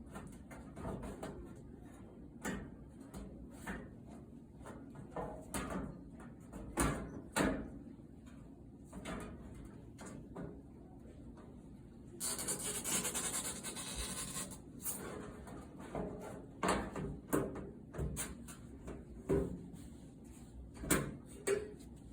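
Scattered clunks, knocks and rubbing of hands working on a clothes dryer's metal panels and parts. A little past the middle comes a steady hissing, rushing noise that lasts about two and a half seconds.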